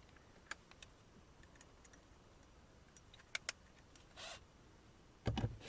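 Scattered light clicks and rattles of small screws and tools being handled during door-panel reassembly. There is a short rustle about four seconds in and a louder dull thump near the end.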